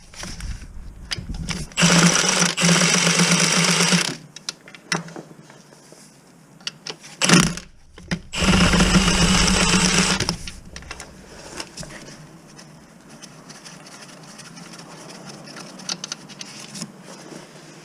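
Cordless power tool run twice in steady bursts of about two seconds each, undoing fasteners during the clutch job, with a few short knocks of tools between.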